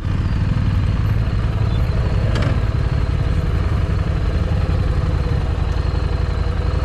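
Motorcycle engine running steadily and loudly, with one brief knock about two and a half seconds in.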